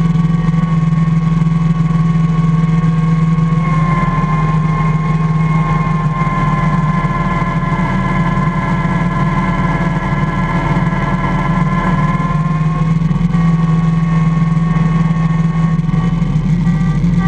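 IH Cub Cadet 147 garden tractor's single-cylinder engine running steadily while plowing snow, its pitch shifting slightly about four seconds in and again near thirteen seconds.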